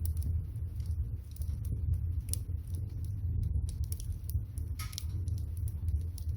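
Water boiling in a pot over a wood fire, with the firewood crackling: a steady low rumble under scattered sharp crackles and pops.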